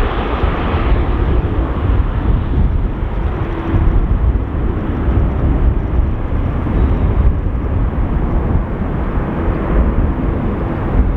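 Jet engine noise from an Airbus A330-300 airliner departing at takeoff power: a loud, steady rumble and roar.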